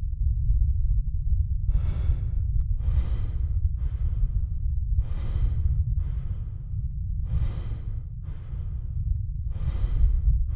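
A man breathing heavily and slowly: about four in-and-out breaths, each a loud one followed by a softer one, over a steady low rumble. The heavy breathing belongs to the strong drug withdrawal he goes through in bed.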